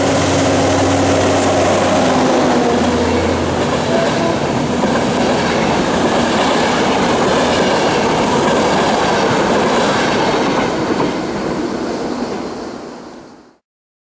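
Electric locomotive hauling a passenger train passing close by: a steady hum from the locomotive in the first three seconds or so, then the coaches rolling past with loud wheel-on-rail noise. The sound fades out just before the end.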